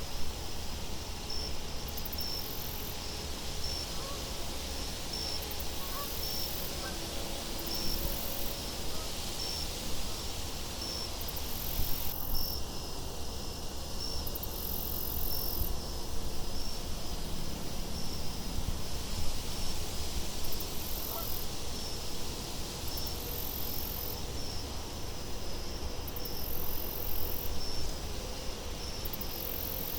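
Crickets chirping in short, regular pulses about once a second, over a steady low wind rumble.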